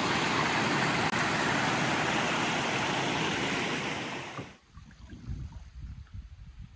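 Creek water rushing steadily, an even, loud hiss that cuts off suddenly about four and a half seconds in, leaving only a faint low rumble.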